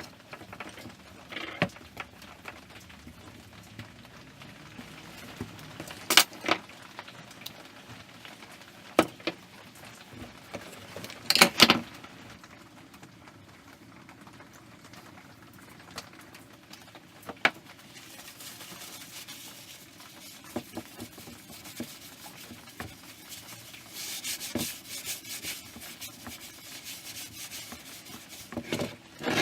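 Handling noise as things are worked by hand: scattered knocks and clicks, two of them sharp and loud, then a quick rustling, rubbing rattle near the end.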